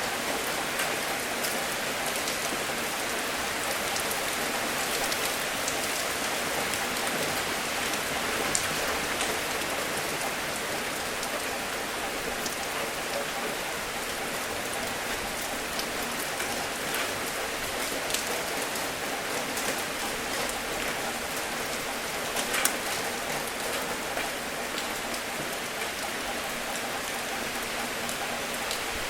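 Steady gentle rain, with a few louder single drops ticking now and then.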